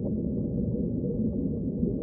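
Ocean water making a steady, deep rumble, with nothing in the higher pitches.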